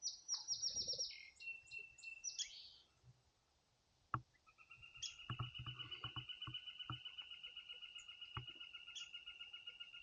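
Songbirds singing: a quick run of high notes in the first second or two, then, from about halfway, one long, even trill lasting about six seconds. A few faint low knocks sound under the trill.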